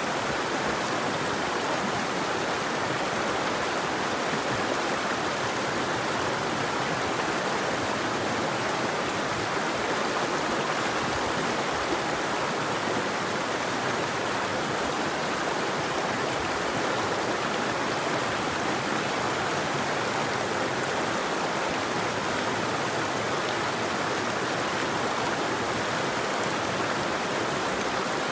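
River water flowing and rushing steadily, an even wash of water noise with no bird calls.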